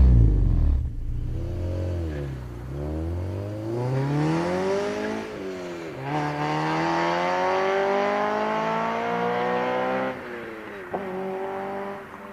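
Honda Civic Si's 2.0-litre four-cylinder engine breathing through an aftermarket header and Invidia Q300 cat-back exhaust as the revs rise and fall. The pitch climbs, drops sharply about five seconds in, then climbs slowly again for about four seconds. The revs fall away about ten seconds in, and there is a sharp click a second later.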